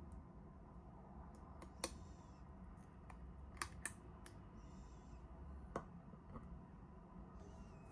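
A few light, separate clicks and taps, two of them close together in the middle, with faint soft rustling between.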